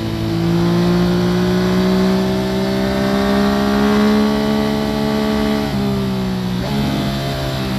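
Yamaha FZ-09 inline-three engine through an Akrapovic full exhaust, heard from under the seat. It pulls at speed with a slowly rising pitch. Near the end the pitch drops sharply twice, as at gear changes.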